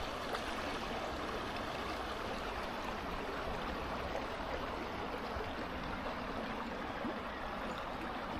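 River water running with a steady rushing noise.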